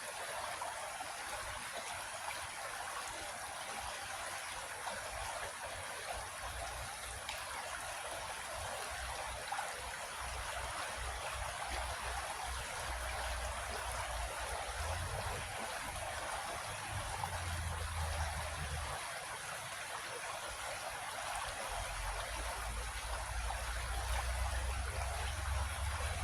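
Creek water flowing over rocks in a steady, even babble. A low rumble comes and goes underneath from about halfway through.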